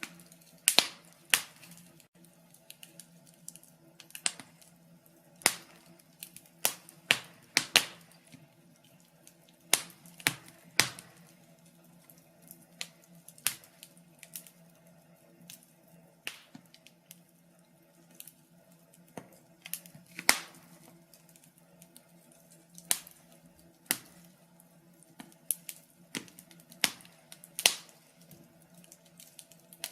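Wood fire crackling in a fireplace: irregular sharp pops and snaps, a few every couple of seconds, some much louder than others. A faint steady low hum lies beneath.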